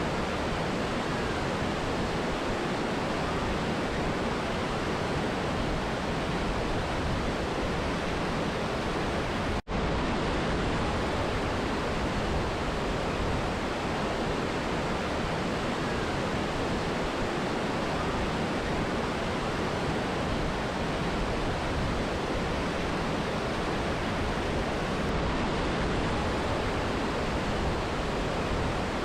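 Mountain river and waterfall rushing in a steady, even roar of water. It cuts out for an instant about ten seconds in, then carries on unchanged.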